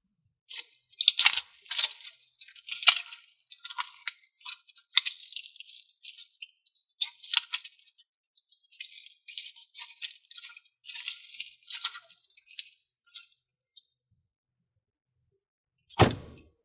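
Slime being squeezed and stretched by hand, making irregular sticky clicks and crackles in bursts, with one sharp thump near the end.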